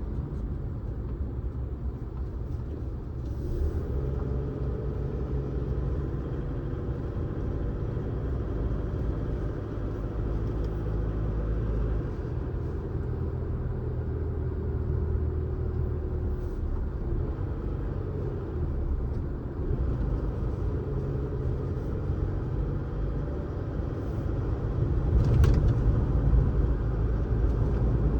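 A car driving on a road: a steady low rumble of engine and tyres, with a faint whine that rises and falls a few times as the revs change. There is a brief sharp tick near the end, and the rumble grows louder toward the close.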